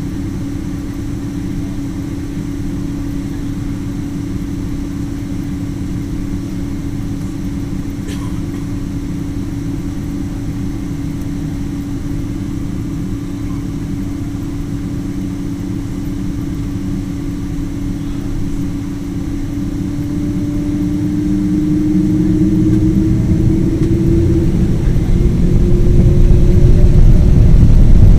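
Boeing 777 twin jet engines running with a steady low hum and tone. Over the last several seconds the tone rises in pitch and the sound grows much louder as the engines spool up.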